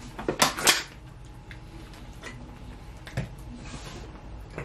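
Eating sounds while eating chicken nuggets: a quick cluster of sharp clicks and smacks about half a second in, then a few sparse ticks.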